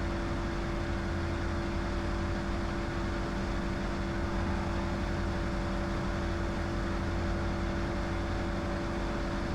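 Diamond DA20's piston engine and propeller running steadily at takeoff power during the climb-out, heard from the cockpit as an even drone with a constant hum.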